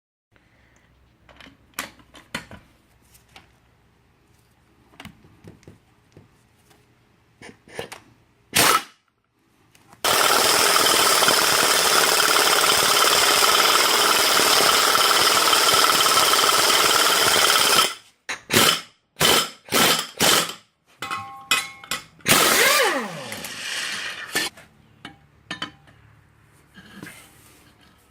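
Impact gun turning the screw of a mechanical exhaust pipe expander. Scattered clanks of metal being handled come first, then the impact gun hammers steadily for about eight seconds, followed by several short bursts and a falling whine, with a few quieter knocks near the end.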